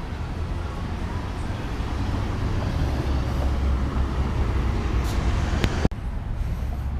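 Road traffic: the low rumble of a motor vehicle running close by, building over the first few seconds, with a sharp click near the end.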